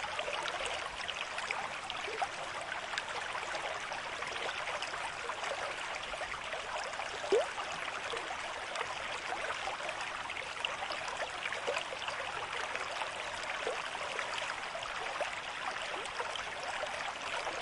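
River stream at moderate flow, running and babbling steadily. One louder gurgling pop comes about seven seconds in.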